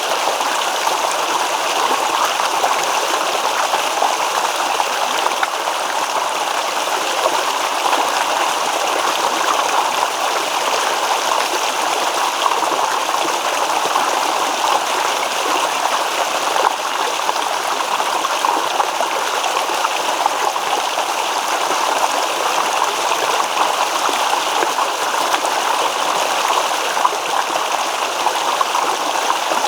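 Shallow stream babbling and trickling over rocks in a steady, even rush of water.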